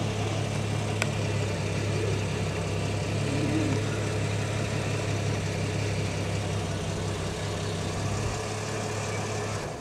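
A vehicle engine idling with a steady low hum, cutting off abruptly near the end. There is a single sharp click about a second in.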